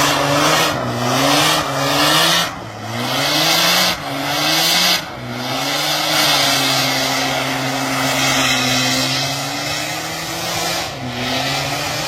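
Car engine revving hard in short rising pulses, about one every three-quarters of a second, then holding a steady high pitch, over a loud hiss of tyre noise.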